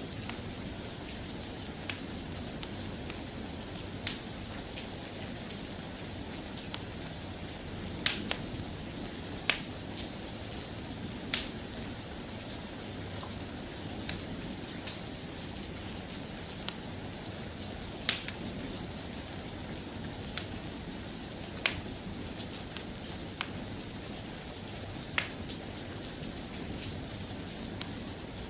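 Steady, soft rain, with sharp single pops or ticks scattered every one to three seconds.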